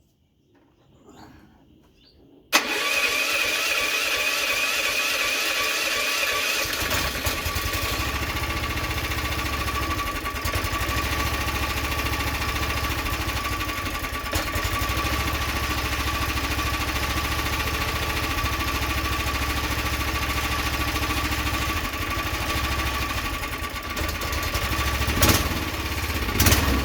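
An engine starts suddenly about two and a half seconds in and keeps running steadily, with a constant whine over a low rumble.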